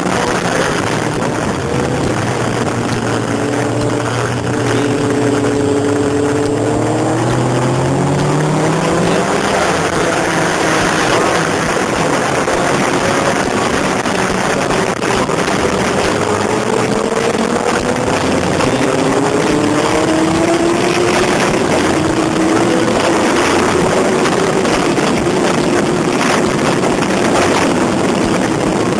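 Sport motorcycle engine under hard acceleration, its pitch climbing twice, then holding steady at high speed, heard through heavy wind rush on a bike-mounted camera.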